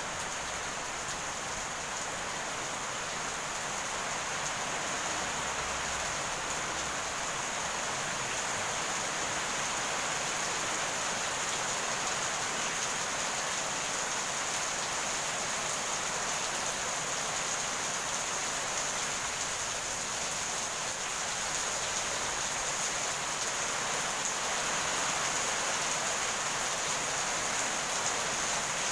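Heavy rain falling steadily, an even dense hiss of drops with no thunder in it, growing slightly louder toward the end.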